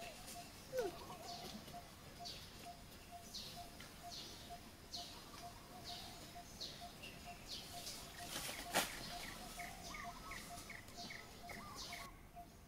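Birds chirping: a run of short, falling high chirps about two a second over a faint steady pulsing note. A sharp click comes about nine seconds in, after which the chirps turn quicker and lower.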